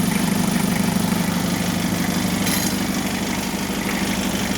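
Toyota L-series four-cylinder diesel engine idling steadily with an even, rapid pulse, newly running again after standing unused for two years.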